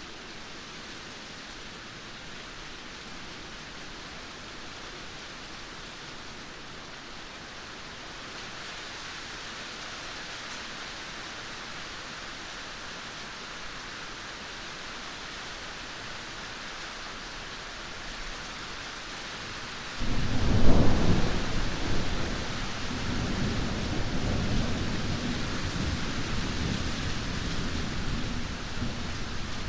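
Steady rain hiss. About two-thirds of the way in, a loud deep rumble breaks in suddenly, peaks, then rolls on more quietly under the rain.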